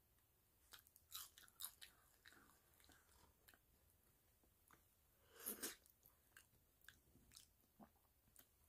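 Faint close-up chewing of crisp fried tostada shell, with scattered small crackles and clicks and one louder crunch about five and a half seconds in.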